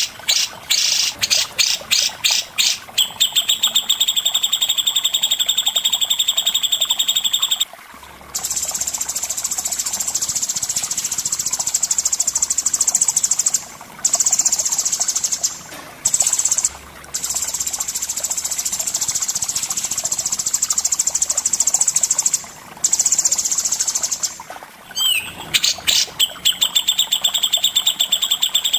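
Songbird song: fast trills of rapidly repeated high notes open and close the passage. In between comes a long, very high buzzing trill broken by short pauses, with a quick rising note just before the final trill returns.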